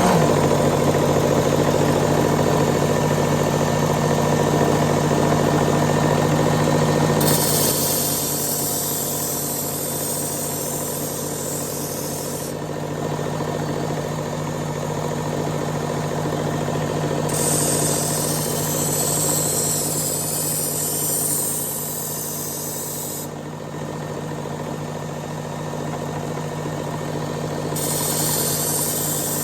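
Work Sharp Elite powered belt sharpener running on an X100 abrasive belt, grinding a kitchen knife's edge to remove coarse scratches. A steady motor hum starts at once, with a grinding hiss that grows brighter and then duller in turns every five seconds or so as the blade is passed over the belt.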